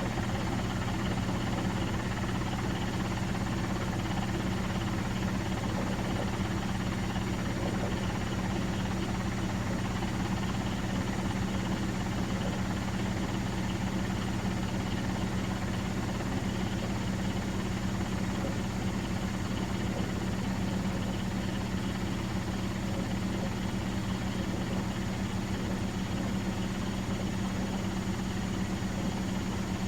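Miele Professional WS5436 commercial washing machine running, with a steady, unchanging motor hum.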